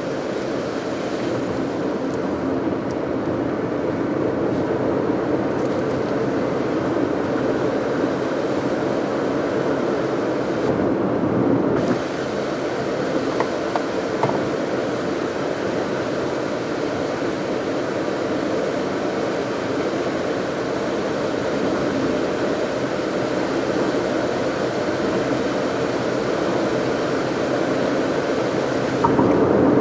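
A car driving at steady speed: an even rumble of engine and tyre noise on the road.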